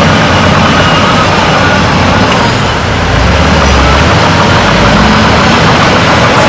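Heavy diesel engine of earthmoving equipment running steadily and loudly, close up.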